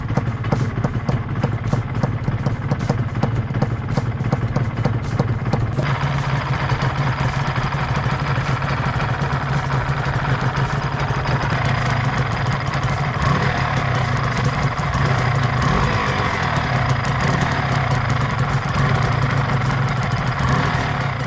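Motorcycle engine running at a steady speed. More high-pitched noise joins in about six seconds in.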